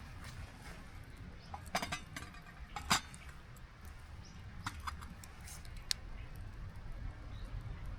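Several sharp clicks and clinks, the loudest about three seconds in, over a low steady rumble.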